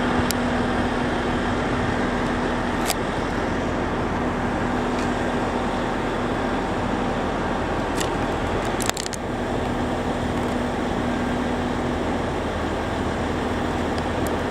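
Electric train at a station platform, its equipment giving a steady hum over a constant rumble. A few sharp clicks come through, the clearest cluster about nine seconds in.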